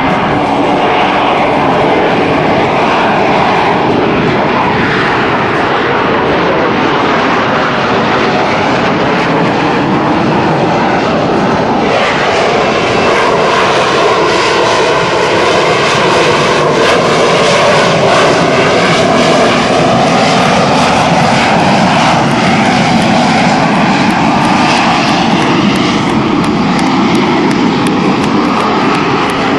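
Military aircraft engines running loud and steady during an airshow demonstration, with their pitch sliding slowly down and up as aircraft pass.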